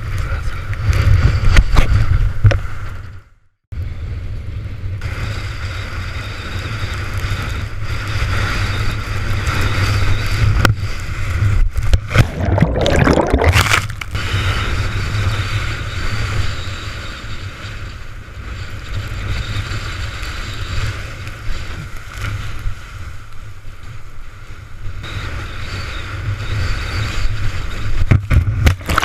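Strong storm wind buffeting the microphone, with water rushing and splashing past a windsurf board under sail. The sound cuts out completely for a moment about three seconds in.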